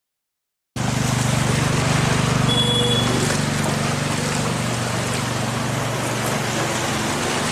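A motor vehicle's engine running, with a steady rush of moving water, of the kind a vehicle makes driving through floodwater on a road. It starts abruptly under a second in, and a short high tone sounds once about a third of the way through.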